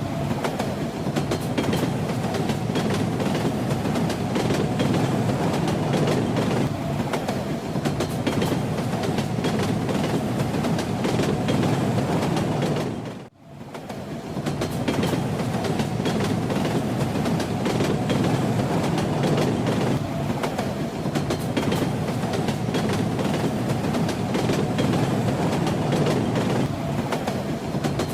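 Steady rumble of a moving train, with the wheels clicking over rail joints. It dips away almost to nothing for a moment about halfway through, then comes back.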